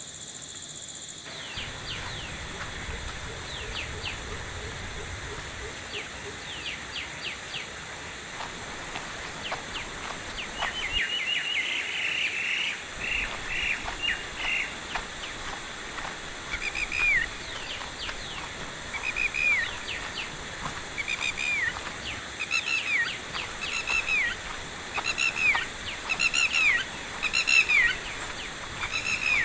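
A bird calling: a quick run of chirps about a third of the way in, then a loud call sliding down in pitch, repeated about once a second through the second half.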